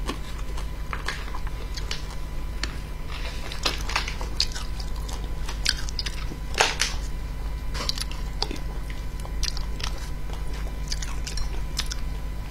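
Close-up eating sounds: chewing and wet mouth smacks as pieces of fish in chili oil are eaten, in irregular sharp clicks a few times a second. A steady low hum runs underneath.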